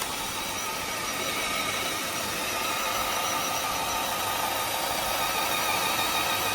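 A small electric motor, likely the DC motor or pump of a model oil-skimmer boat, running steadily with a high whine over a constant hiss.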